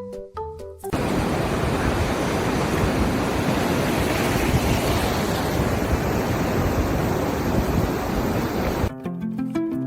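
Loud, steady rushing noise with no tune or rhythm, like wind or surf, lasting about eight seconds. Music with clear notes plays before it and comes back near the end.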